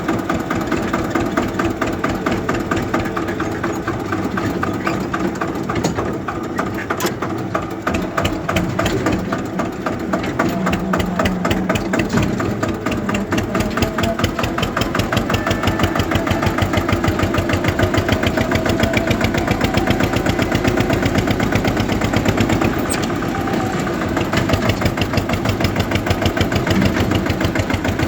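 Eicher tractor's diesel engine running steadily, its firing strokes coming as a fast, even pulsing beat, a little louder in the second half.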